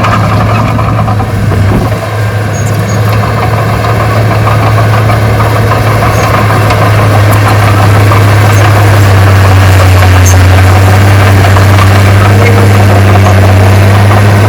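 Heavy diesel engine of earthmoving equipment running steadily with a constant low drone, getting a little louder about halfway through.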